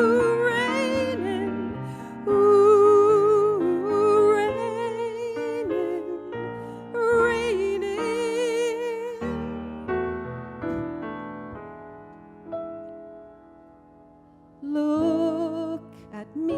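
Instrumental musical-theatre interlude: piano accompaniment with a sustained melody line that wavers with vibrato. It grows quieter toward the end, then a new phrase enters.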